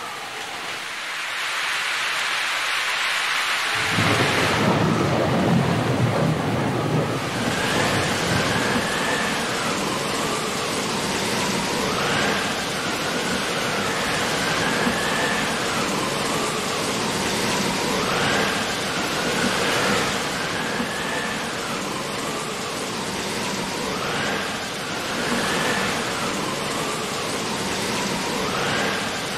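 Heavy rain and wind beating on a ship's bridge windows, the downpour building in about four seconds in with a low rumble. A wavering whine rises and falls every few seconds through the storm noise.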